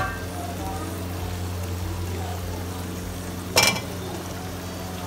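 Chicken masala sizzling softly in a steel pot over a steady low hum. About three and a half seconds in, cubes of boiled potato tumble off a slotted spatula into the pot with a short clatter.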